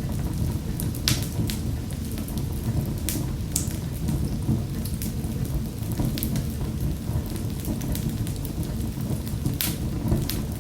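Wood fire crackling in a fireplace: irregular sharp pops and snaps over a steady low rumble of burning flames.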